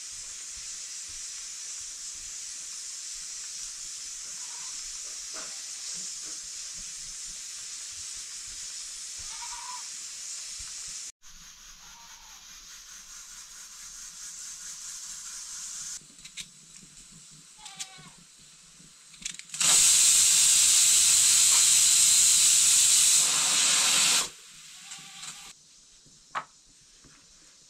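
Food sizzling in a hot pan, a steady hiss, then after an abrupt break a much louder hissing rush for about four seconds near the end. Faint short animal cries sound now and then.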